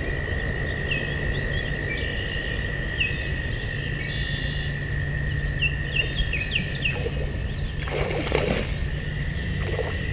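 Small birds chirping repeatedly over a steady high-pitched hum and a low drone, with a brief cluster of knocks about eight seconds in.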